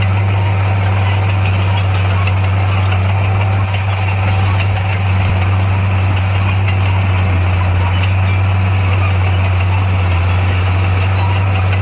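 Diesel engine of heavy earthmoving equipment running steadily with a loud, constant low drone.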